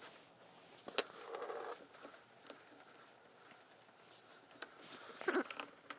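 Quiet workshop room with a few faint clicks and taps, typical of small mower parts being handled during reassembly, and a brief faint pitched sound about five seconds in.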